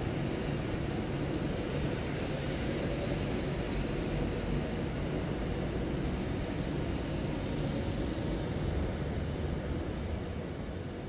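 Train running at the platform: a steady rumble with a faint whine, easing off slightly near the end.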